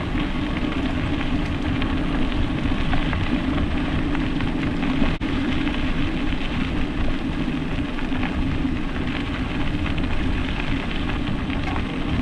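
Steady rush of wind on the microphone mixed with bicycle tyres rolling on a trail while riding, cutting out for an instant about five seconds in.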